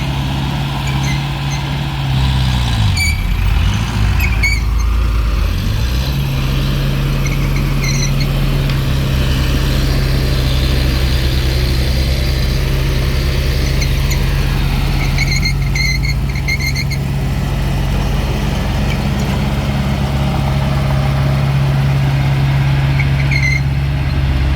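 Mini bulldozer's diesel engine running steadily under work. It dips in revs and picks up again a few seconds in. Short, high-pitched metallic squeaks come and go several times.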